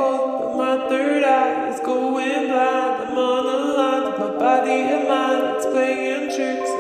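A cappella vocal music: several voices singing held chords that change every second or so.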